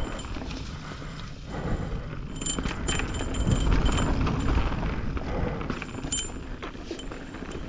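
Mountain bike riding down a dirt trail: tyres on wet ground and the bike rattling over bumps, with wind rumbling on the microphone.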